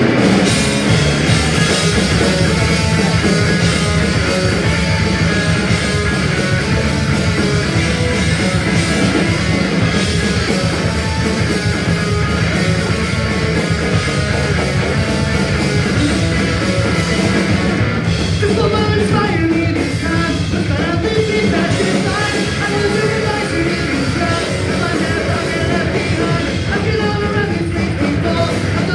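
Live punk rock band playing a fast song at full volume: electric guitars, bass and drums, with singing over the top.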